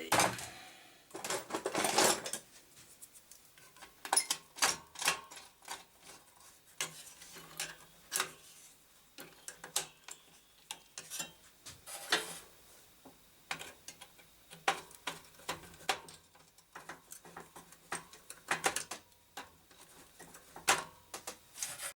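Irregular clicks, knocks and light clatter of hard parts being handled while working on a desktop computer, densest in the first couple of seconds.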